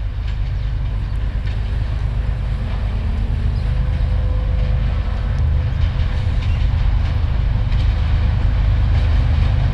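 Approaching diesel train, a steady low rumble growing slowly louder as it nears.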